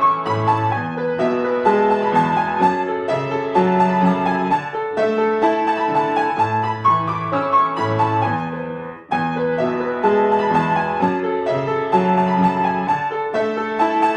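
Solo piano music: a melody over bass notes. It dies away about nine seconds in and starts again after a short break.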